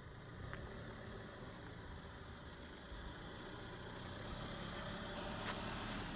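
A car engine idling: a faint, steady low rumble that grows gradually louder.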